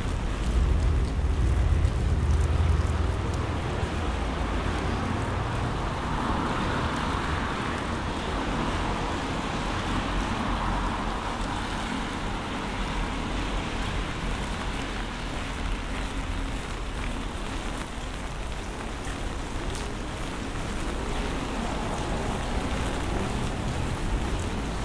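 Heavy rain falling on a city street, a steady hiss, with traffic on the wet road: a deep vehicle rumble, loudest in the first few seconds, and a swell of hiss from about six to twelve seconds in.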